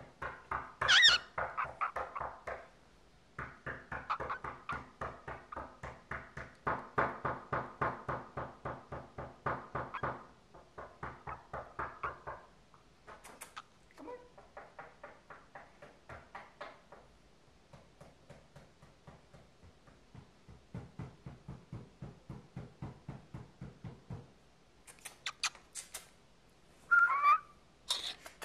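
Cockatiel chattering in long runs of quick repeated notes, several a second, with a short whistle near the start and another near the end.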